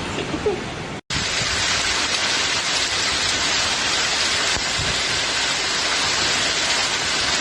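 Torrential rain pouring down in a dense, steady hiss; it drops out for an instant about a second in, then carries on a little louder.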